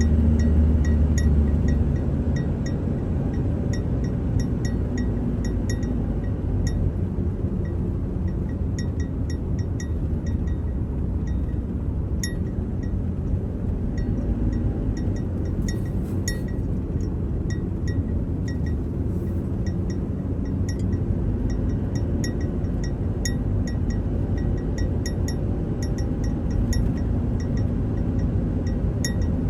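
Road noise inside a moving vehicle: a steady low rumble, louder for the first couple of seconds, with frequent small light clicks and clinks.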